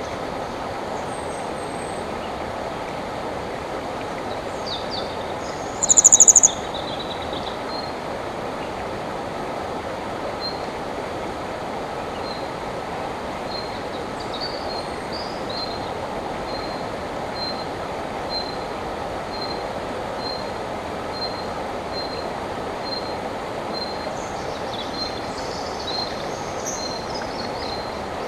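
River water flowing steadily over rocks, with songbirds over it. A loud, brief high trill comes about six seconds in. Later one bird repeats a short high note about twice a second, with a few more chirps near the end.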